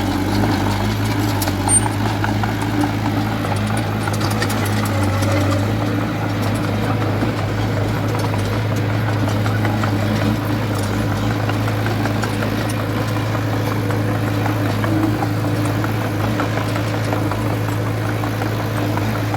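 Diesel engine of heavy construction machinery running steadily with an even, deep drone.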